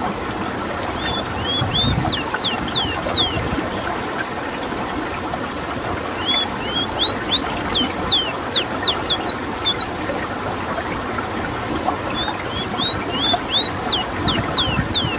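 Ruddy-breasted seedeater (Sporophila minuta) singing three phrases of quick whistled notes. Each phrase opens with short upslurred notes and ends in a run of steep downslurred whistles. The song is heard over a steady background hiss.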